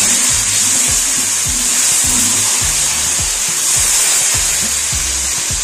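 Chopped onions and ginger-garlic paste sizzling steadily in hot oil in a wok as a spatula stirs them, with a splash of water just added. Background music plays underneath.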